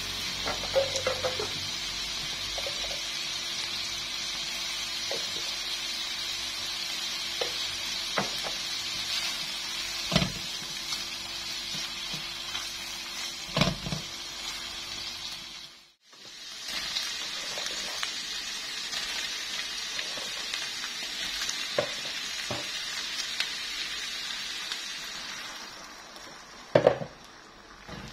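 Shrimp and minced garlic sizzling in hot oil in a nonstick pan, with a spatula now and then scraping and knocking against the pan. The sizzle drops out briefly about halfway through, then returns, and fades near the end, followed by a couple of sharp knocks.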